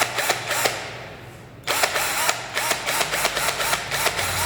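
A 21V cordless drill's motor whirring in a rapid series of short spurts, about five a second, its pitch rising and falling with each one. There is a brief run at the start, a gap of about a second, then a longer run.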